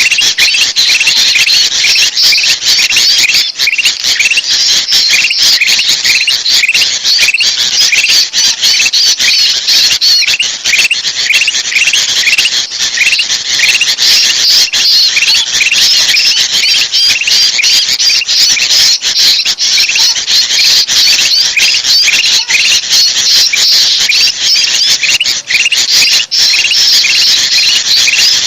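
Bulbuls chattering in alarm, the agitated calls of sooty-headed bulbul mixed with kutilang emas, as used to lure small birds. It is a dense, continuous, harsh chatter with short repeated notes about three a second.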